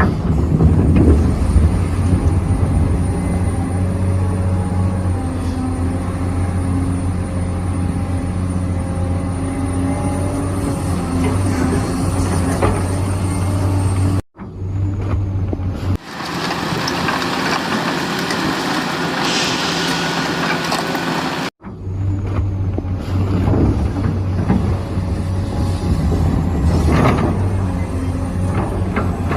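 Remote-controlled scale excavator running with a steady mechanical hum. The sound drops out abruptly twice, and between the drop-outs it turns hissier with less low hum.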